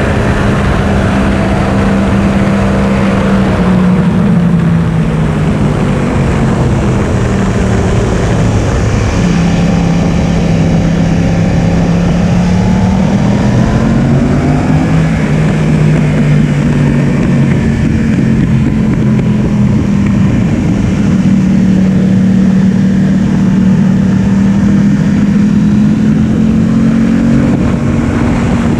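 Yamaha R1 inline-four engine running hard at high revs, its pitch dropping and climbing several times as the bike shifts gear and brakes and accelerates, with wind noise over the whole sound.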